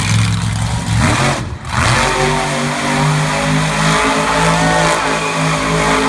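Monster truck engine running loud, dipping briefly about a second and a half in, then holding a steady pitch.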